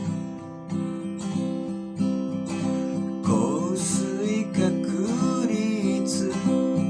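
Acoustic guitar strumming chords, with a gliding, wavering melody line joining over the chords about three seconds in.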